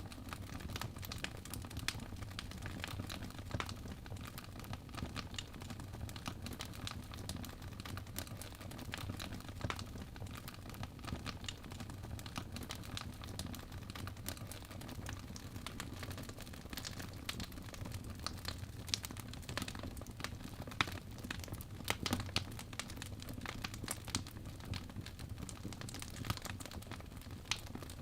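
Wood fire crackling in a fireplace: irregular sharp pops and snaps from burning logs over a low, steady rumble of the flames.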